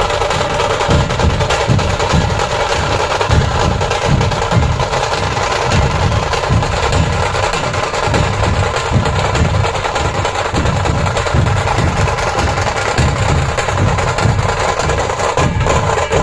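Dhol-tasha drumming: dhol barrel drums pounding a steady, fast beat under rapid, sharp rolls of tasha drums.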